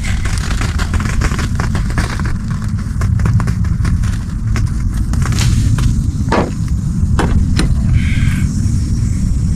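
Wind buffeting the microphone in a steady low rumble, with scattered sharp ticks and taps.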